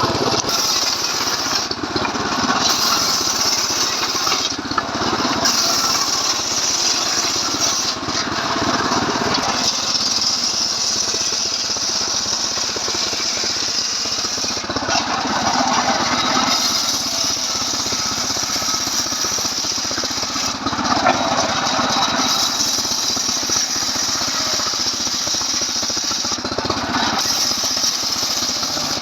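Stihl MS 381 two-stroke chainsaw engine running hard, driving a homemade circular-saw rig ripping a log lengthwise. The sound swells and eases every few seconds as the blade bites into the wood and lets off.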